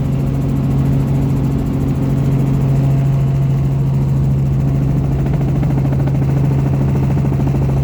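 Helicopter running, a loud steady engine-and-rotor drone with a strong low hum that holds without change.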